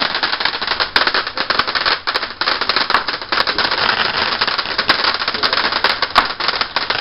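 Firework crackling: a dense, continuous stream of rapid small pops and cracks, with a few louder cracks standing out, one about a second in and one near the end.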